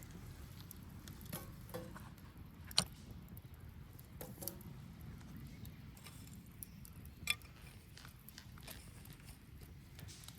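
Wood bonfire crackling: scattered sharp pops and snaps over a low steady rumble, with two louder pops, about three seconds in and again past seven seconds.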